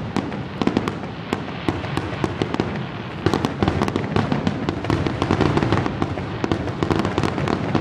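Aerial fireworks going off in a dense barrage: many shell bursts and crackles in quick succession, coming thicker from about three seconds in. It is the heavy rapid-fire stretch that the onlooker hopes is the show's finale.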